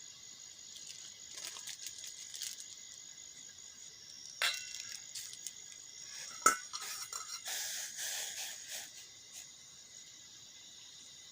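A steady, high chirring of crickets, with scattered clicks, light clinks and rustles over it, and one sharp knock, the loudest sound, about six and a half seconds in.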